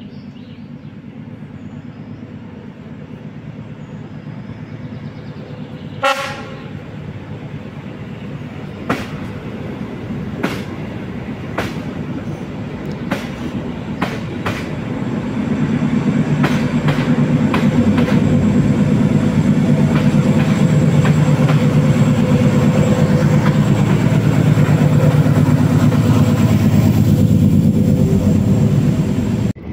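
Rack-railway train of a Class 810 diesel railcar with trailers and diesel locomotive 743.010 approaching and passing. A short horn blast comes about six seconds in, then a run of sharp clicks from the wheels on the rails. The diesel engines then run loud and steady as the train goes by.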